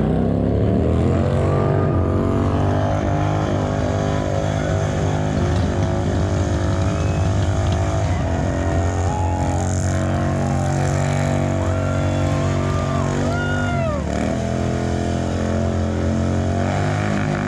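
Motorcycle engine revved hard and held at high revs, its pitch wavering, dropping briefly near the end and then climbing back.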